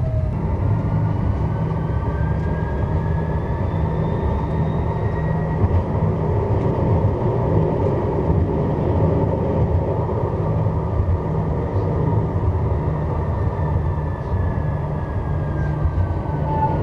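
Strasbourg Eurotram running between stops, heard from on board: a steady rumble of wheels on rail under the whine of the traction motors. The whine rises in pitch over the first several seconds as the tram gathers speed and falls through the later part as it slows for the next stop.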